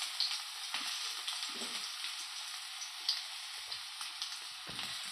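Soybean cutlets shallow-frying in hot oil in a kadhai: a steady sizzle with small crackles and pops, and a few soft knocks.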